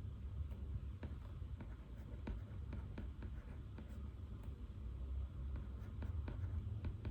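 Pen writing on paper: many small irregular scratches and taps of the nib over a low, steady room hum.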